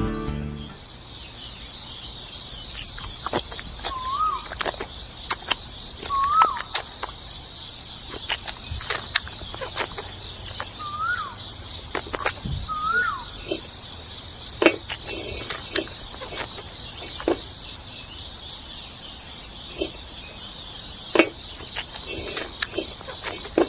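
Steady high-pitched drone of insects such as crickets, with scattered light clicks and taps and four short rising-and-falling chirps.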